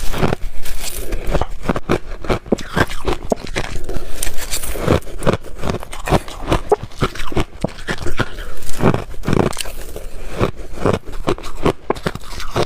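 Ice being chewed close to the microphone: a continuous run of loud, irregular crunches and cracks, several a second.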